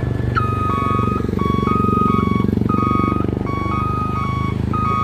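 A truck's reversing alarm sounding a repeating two-note electronic beep pattern as it backs up, over its diesel engine running, the engine louder in the middle of the stretch.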